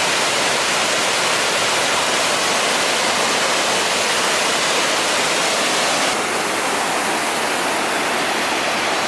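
Steady roar of a large waterfall, the Tegenungan Waterfall, with water crashing down heavily. Its tone shifts slightly about six seconds in.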